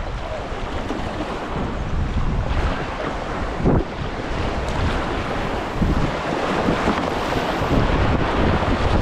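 Rushing, splashing river whitewater with wind buffeting the microphone, with a sharp knock about four seconds in.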